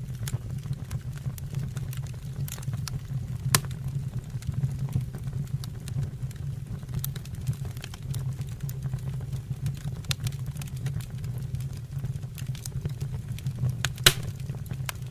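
Wood fire burning in a fireplace: scattered crackles and pops over a steady low rumble, with two sharper pops, one about three and a half seconds in and one near the end.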